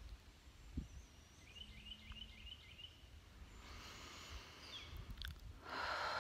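Faint outdoor ambience with a small bird singing a quick run of about five high chirps about two seconds in. A steady hiss rises near the end.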